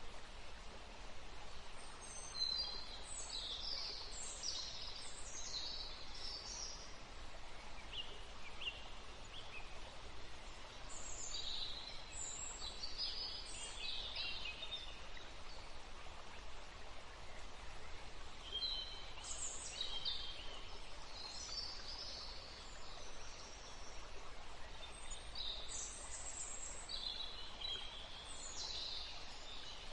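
Small songbirds singing in four bouts of quick, high chirping notes, over a steady hiss of running river water.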